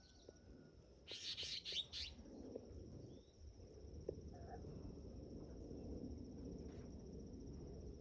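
A bird giving a quick run of four or five harsh chirps about a second in, over a steady high-pitched insect drone and low background rumble.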